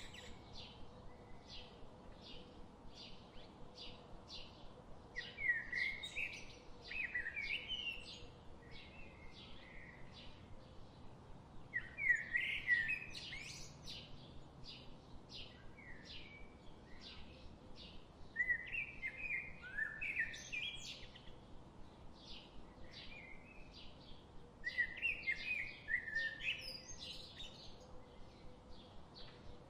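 Songbirds singing: one bird repeats short chirps at about three a second without a break, while another sings louder warbling phrases, each a few seconds long, roughly every six seconds.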